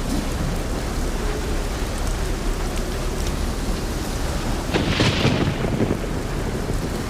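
Steady heavy rain falling, with a sudden louder burst of noise about five seconds in that dies away within a second.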